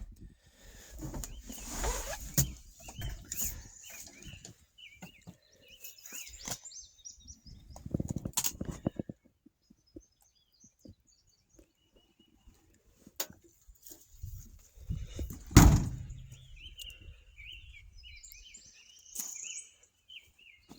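Scattered knocks and thumps, with one loud sharp impact about two-thirds of the way through, and small birds chirping near the end.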